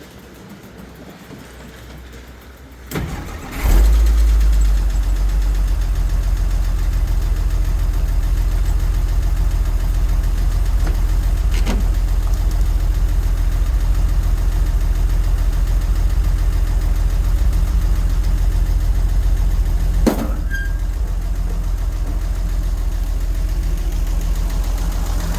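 1963 Jeep Gladiator's engine firing up about three and a half seconds in and settling into a steady, low idle. A sharp click comes about twenty seconds in, after which it runs a little quieter.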